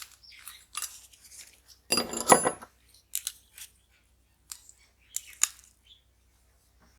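Small hard parts and hand tools clinking and scraping during work on a scale model car, with a louder clatter about two seconds in and a few sharp clicks after it.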